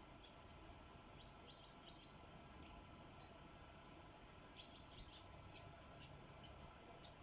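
Sparrows chirping faintly, with short high chirps in two quick clusters, about a second in and again past the middle, over a low steady background hiss.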